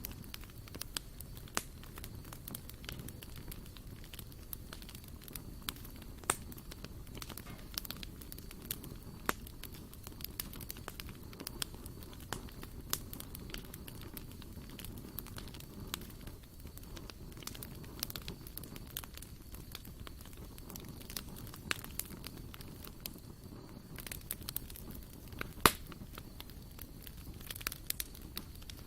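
Wood campfire crackling, with irregular sharp pops and one much louder pop near the end.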